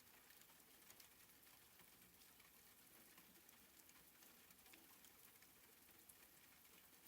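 Faint, soft rain: a steady hiss with many small, scattered drop ticks.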